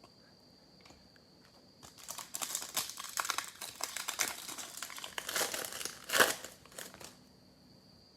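Foil wrapper of a Panini football card pack crinkling and tearing open, starting about two seconds in and running for about five seconds, with a sharp loudest rip near the end.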